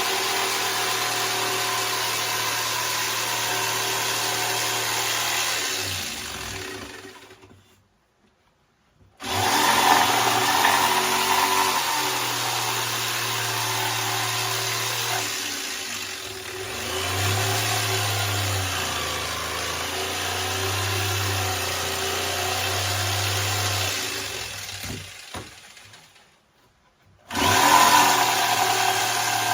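An electric power-tool motor running steadily with a hiss of cutting or sanding. It winds down and stops twice, each time starting up again abruptly, and its pitch dips for a stretch in the middle.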